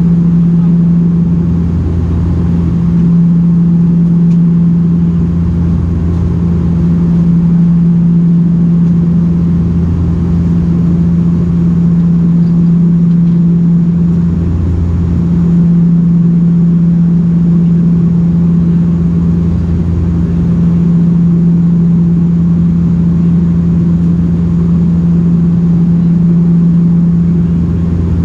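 Cabin drone of a Bombardier Dash 8-402 (Q400) turboprop in flight: the steady hum of its two propellers, with a low throb that swells and fades every few seconds.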